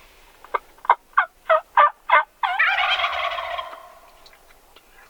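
A quick series of six turkey yelps, then a wild turkey gobbler answering with a loud, rolling gobble that trails off.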